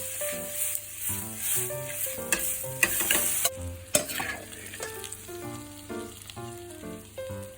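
Vegetables sizzling in a frying pan as they are stir-fried, with a few sharp knocks of the spatula against the pan. The sizzle fades noticeably about three and a half seconds in.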